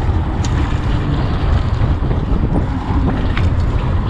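Wind rumbling steadily on the microphone of a moving bicycle.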